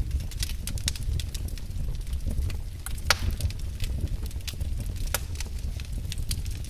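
Wood fire burning in a fireplace, with irregular sharp crackles and pops over a steady low rumble of the flames; the loudest pop comes about three seconds in.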